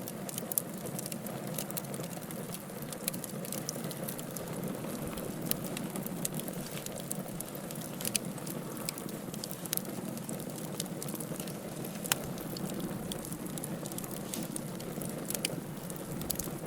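Wood burning in a fireplace: a steady low rush of flames with frequent sharp crackles and pops, one louder pop about twelve seconds in.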